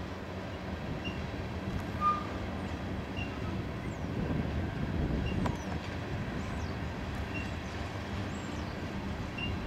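Loaded coal hopper cars rolling past: a steady rumble of steel wheels on the rails, with a brief squeal about two seconds in.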